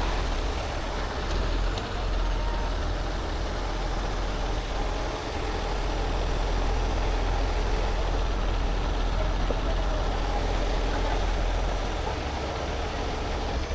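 Heavy rotator tow truck's diesel engine running steadily, a continuous low rumble.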